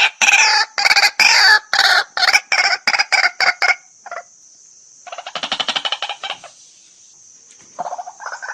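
White-breasted waterhen calling: a loud run of harsh, rapidly repeated notes for about four seconds, then after a short pause a faster stuttering series, starting again near the end. A steady high hiss runs underneath.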